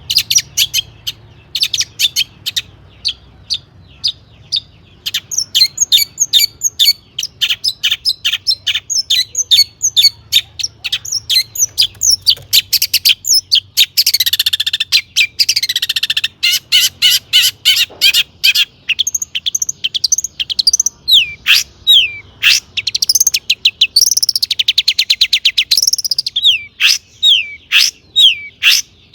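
Long-tailed shrike (cendet) singing a long, varied song full of mimicked notes: quick runs of sharp chirps and whistles, broken by a harsh rasping phrase about halfway through and another near the end.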